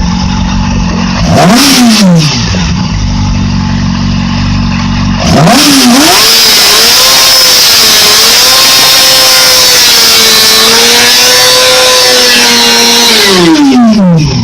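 2008 Yamaha YZF-R6 inline-four engine running in sixth gear: idling, blipped briefly about a second and a half in, then revved high about five seconds in and held there for about eight seconds before dropping back to idle near the end.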